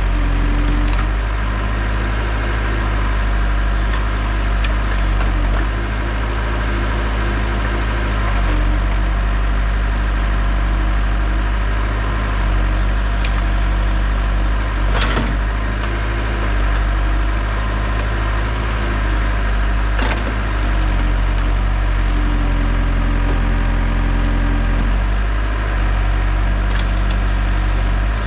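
Heavy equipment engine running steadily under work, its pitch shifting a few times as the load changes, with a few sharp knocks, the loudest about halfway through.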